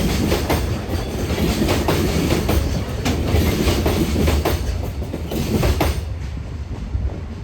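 Container freight train wagons rolling past at speed, their wheels clacking over rail joints in repeated sharp clicks over a steady rumble. The noise thins and the clacks stop about six seconds in.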